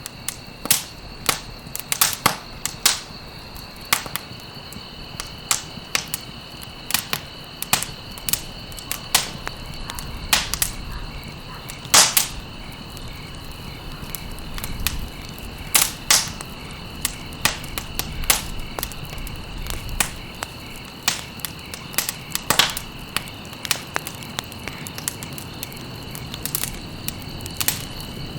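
Campfire burning, with irregular sharp crackles and pops, the loudest about twelve seconds in, over a low rumble and a steady high-pitched tone.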